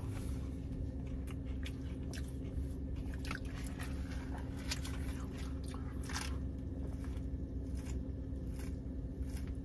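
Close-miked eating sounds: chewing and biting with scattered wet mouth clicks, and a sip from a soda cup near the end, over a steady low hum.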